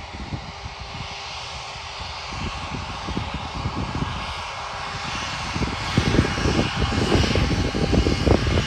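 Jet engines of a Freebird Airlines Airbus A320-232, its IAE V2500 turbofans spooled up for the takeoff roll: a steady rushing noise that grows louder about six seconds in.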